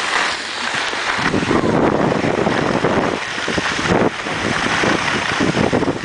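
Loud, uneven rushing noise of wind buffeting the microphone while moving on skis.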